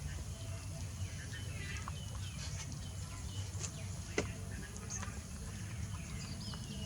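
Scattered short, high chirps and squeaks from small animals or birds over a steady low rumble, with one sharp click about four seconds in.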